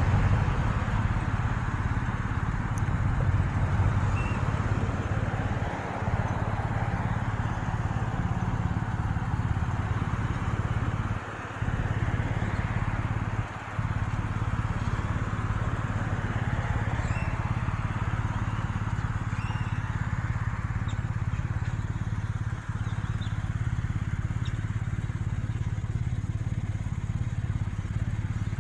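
Road traffic: a steady low engine hum with the noise of vehicles going by, swelling and fading slowly.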